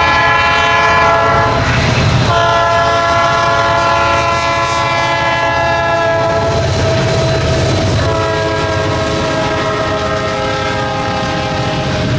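Diesel freight locomotive's air horn sounding a chord in long blasts, broken briefly about two seconds in and again about eight seconds in, over the low rumble of the passing train.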